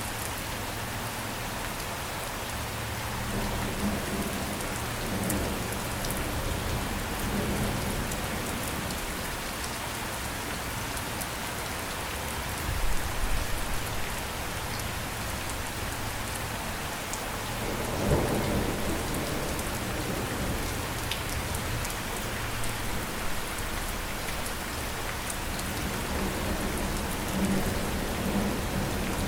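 Steady rain falling, with low thunder rumbling in a few times, loudest about halfway through.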